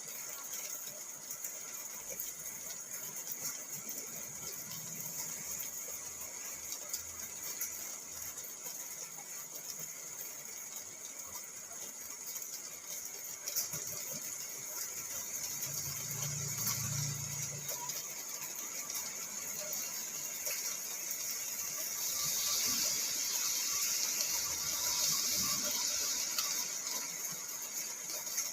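Steady rain pattering on a car's roof and windows, heard from inside the car, growing heavier for a few seconds near the end.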